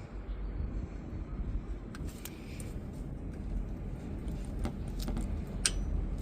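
Scattered light metallic clicks and taps of hand tools working a brake pad retaining clip into a caliper, starting about two seconds in, over a steady low rumble.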